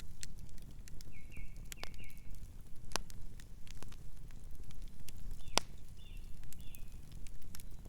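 Campfire crackling, with irregular sharp pops of burning wood over a steady low rumble. Short high chirps sound in two brief runs, about a second in and again past the middle.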